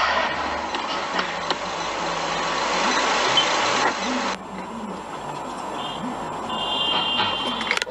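Dashcam recording of a moving car's road and engine noise; after a cut about four seconds in, quieter car sound with a brief high electronic beeping near the end.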